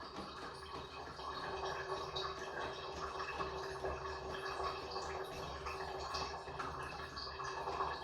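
Water running and dripping in a small room, a steady wash with small irregular drips.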